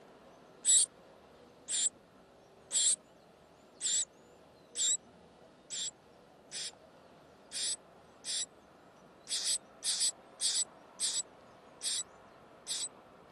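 Bird at a nest calling: about fifteen short, shrill, high calls, roughly one a second and coming a little faster in the second half.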